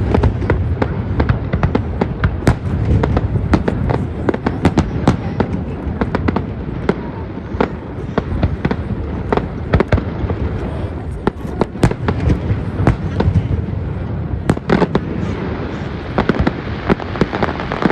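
Fireworks display: a dense run of sharp bangs and crackles at irregular, rapid intervals over a continuous low rumble of booms.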